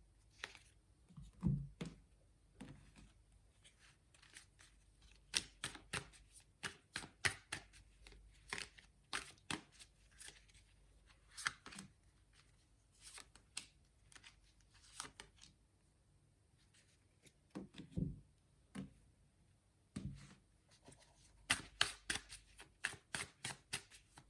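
A tarot deck being shuffled by hand: quiet, irregular flicks and slaps of cards, with a few soft thumps.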